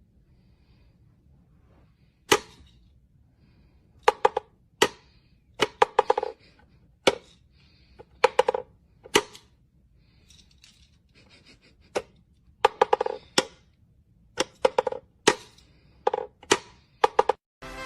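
A series of irregular sharp knocks and clicks, some in quick pairs or clusters, over a faint low hum.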